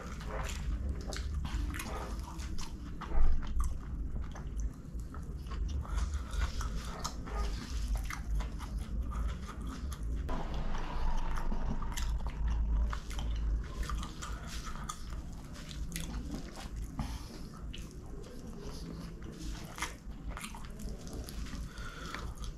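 Close-miked chewing and lip-smacking of a person eating chicken kottu and devilled chicken by hand, with a constant run of small wet mouth clicks. One louder sharp click about three seconds in.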